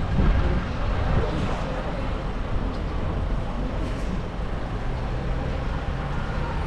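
Strong storm wind blowing, a steady rushing noise with a heavy low rumble.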